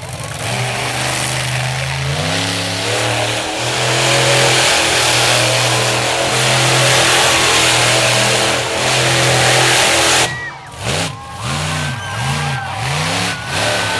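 Monster truck engine running at high revs under heavy throttle, then dropping off sharply about ten seconds in. It is then blipped through several quick up-and-down revs.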